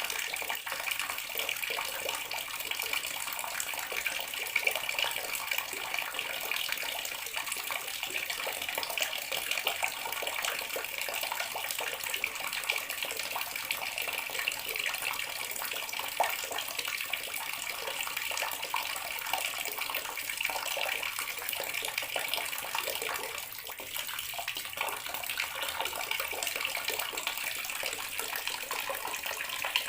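Bathroom water tap running steadily, a constant stream splashing into the basin or tub below.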